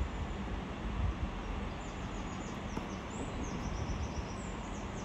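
A small bird chirping a quick run of short, high, falling notes from about two seconds in, over a steady low background rumble.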